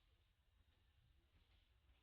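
Near silence: faint background rumble.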